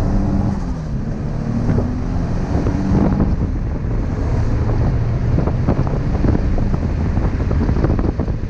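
Twin-turbo Nissan 350Z's V6 heard from inside the cabin, just after a pull, its engine note stepping down in pitch through gear changes. A heavy rush of road and wind noise and many scattered sharp clicks run over it.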